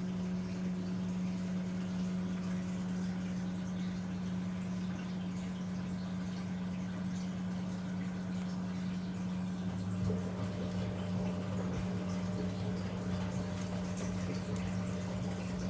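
Zanussi DL22 washing machine running a 90 °C boil wash: a steady hum with water sloshing in the drum, the deeper part of the hum growing stronger partway through.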